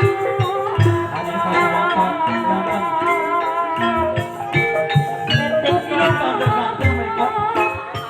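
Javanese gamelan music in campursari style, played for an ebeg horse-trance dance: drum strokes over ringing, held metallophone notes, with a wavering melodic line above.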